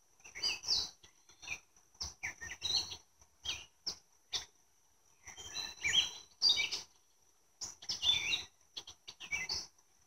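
Small birds chirping in short, quick calls, some of them sweeping in pitch, on and off throughout.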